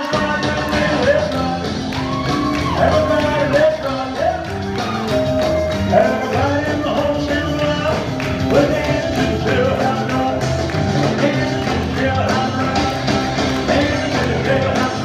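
Live rock and roll music: a band playing with a singer's voice over it.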